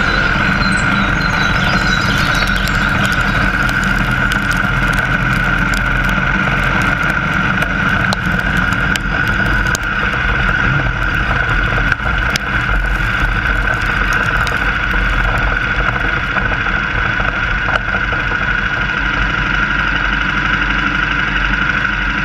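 KTM 1190 motorcycle on the move: its V-twin engine running steadily under a constant rush of wind noise on the microphone.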